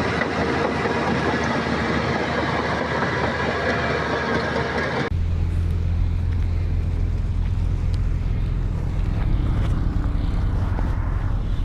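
Heavy earthmoving machinery running, its diesel engine noise loud and continuous. About five seconds in it switches abruptly to a deeper, heavier engine rumble with less clatter on top.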